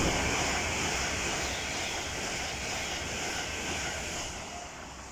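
LNER express passing through the station non-stop at speed: a loud rush of air and wheel noise on the rails that slowly dies away as the train leaves.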